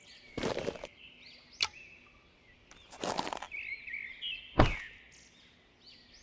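Birds chirping, broken by a few separate short swishes and knocks, the last a low thud.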